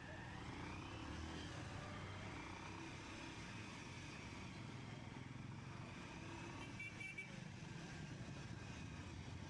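Faint, steady low rumble of a motor vehicle on the move, with some faint wavering tones higher up.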